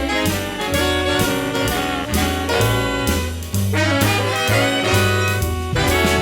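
Jazz big band playing, with saxophones and brass over a bass line, mixed from parts each player recorded on a phone or home gear. The band thins out briefly about three and a half seconds in, then comes back in full.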